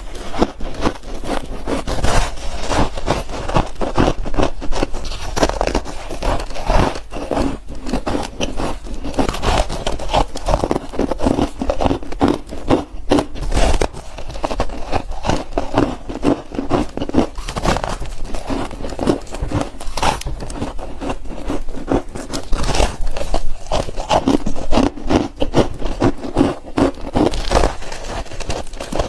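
Close-up crunching and chewing of layered freezer-frost bars: a dense, continuous run of crisp crackles and crunches as the frost is bitten and broken up in the mouth.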